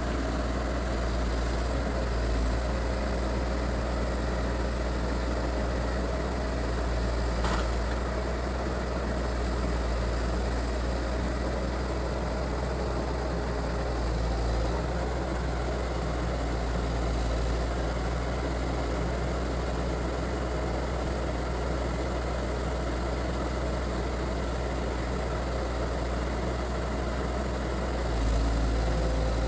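Excavator's diesel engine running steadily with a deep low hum, with a single short knock about seven and a half seconds in.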